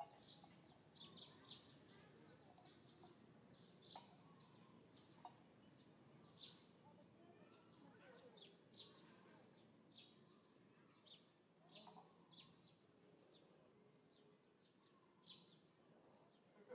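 Faint outdoor ambience with small birds chirping: short, high chirps about once a second over a low background hiss.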